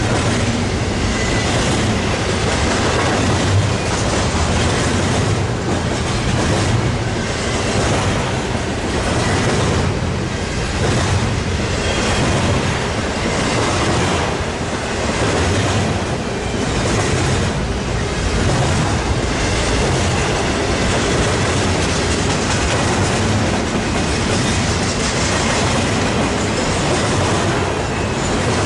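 Double-stack intermodal freight cars rolling past on the main line: a steady rumble of steel wheels on rail, with clicks recurring every second or two as wheel sets cross rail joints.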